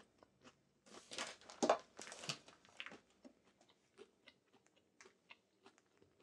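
A man chewing a crispy breaded plant-based chicken nugget. There is a run of crunching chews about a second in, loudest near the middle, then softer scattered mouth clicks.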